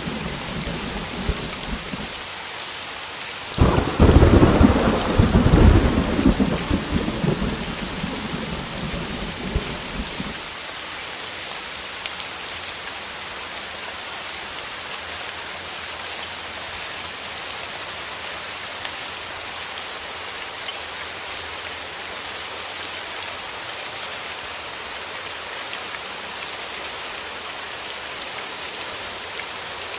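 Heavy rain falling steadily, with a clap of thunder that breaks sharply about three and a half seconds in and rumbles away over the next several seconds.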